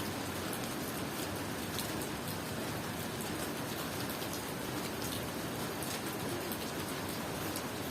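Steady tropical rain falling, a dense even hiss with individual drops ticking here and there.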